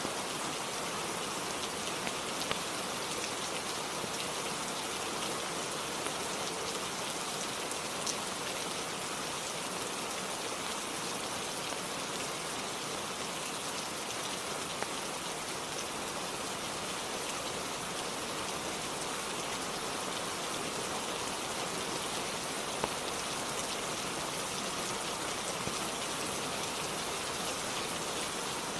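Steady rainfall, an even hiss that does not change, with a few sharp ticks scattered through it.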